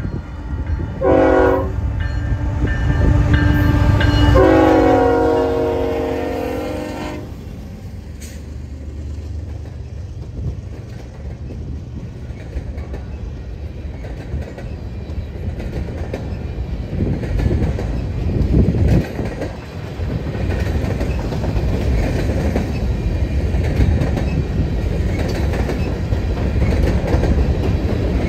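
Diesel freight locomotive's multi-note air horn: a short blast about a second in, then a long blast of about three seconds, the short-then-long close of a grade-crossing horn signal. Then the steady low rumble and clickety-clack of the train rolling past.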